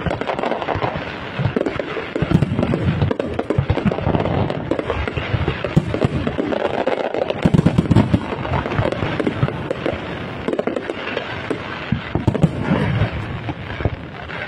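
Fireworks display: many aerial shells bursting in quick succession, dense overlapping bangs and crackling that run on without a break.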